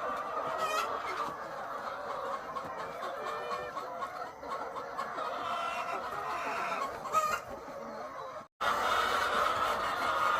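Chorus of many egg-laying hens clucking all at once, steady and dense. It cuts out abruptly for a moment about eight and a half seconds in, then resumes.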